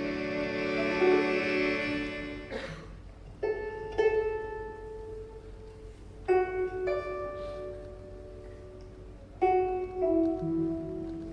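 Live traditional ensemble music. A sustained chord is held for the first couple of seconds. Then a plucked string instrument plays notes in pairs, each note ringing out.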